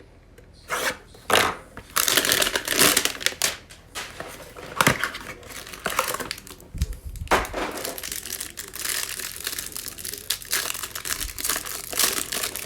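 Plastic wrapping and cardboard of a Mosaic football trading-card hanger box being torn open and handled, with continuous crinkling and a few sharp snaps.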